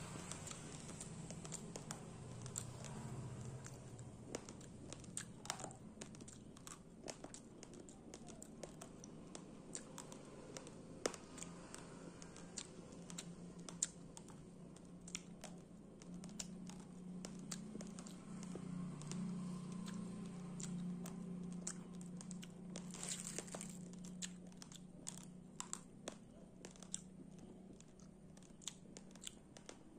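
Crunching of dry raw brown rice grains being chewed, heard as many small, irregular, crisp cracks over a faint low hum.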